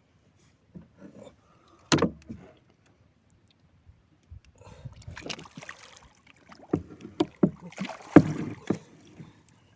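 A single sharp knock on a wooden fishing boat about two seconds in, then from the middle on a busy run of irregular knocks and thumps against the hull with splashing noise.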